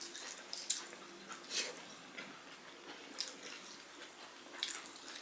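Chewing, with scattered short wet smacks and soft squishing from eating rice and curry by hand.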